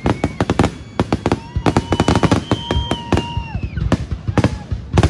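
Fireworks going off in quick succession: a dense run of sharp bangs and crackles, with high whistling tones over them, one held for about two seconds before it drops away.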